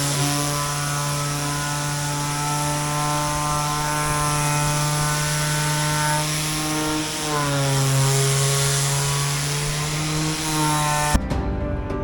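A small motor running with a steady, buzzing hum. Its pitch drops about seven seconds in and rises again about three seconds later. It cuts off suddenly near the end, and music starts.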